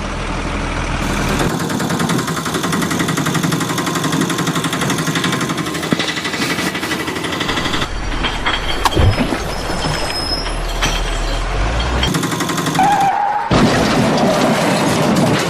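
Vehicle engine sounds running steadily, with the sound changing abruptly a few times as if cut together.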